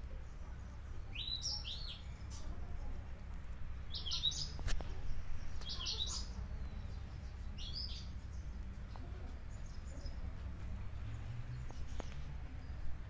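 Birds chirping: a few short, high phrases over a low, steady rumble.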